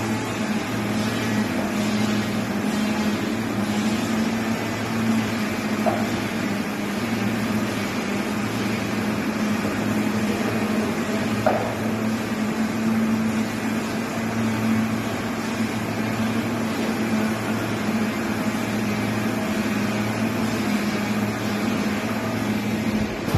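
Heavy machinery running steadily with a low hum that swells and eases slightly every second or two.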